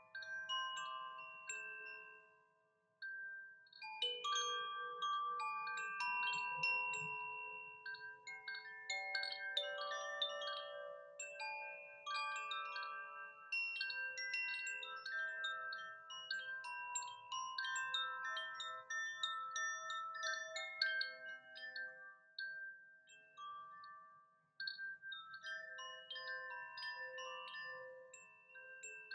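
Chimes being played: many bright metal tones struck in quick, irregular succession, overlapping and ringing on. The ringing fades almost to nothing about two and a half seconds in and picks up again half a second later, with another brief lull about five seconds before the end.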